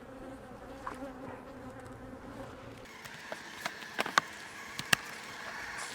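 Honeybees buzzing in a steady hum around an open hive. About halfway through, a series of sharp clicks and knocks comes in and is the loudest thing heard.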